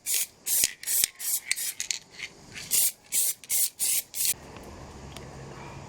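Aerosol can of black spray paint being sprayed in about a dozen short hissing bursts. The spraying stops a little past four seconds in, and a low steady hum takes over.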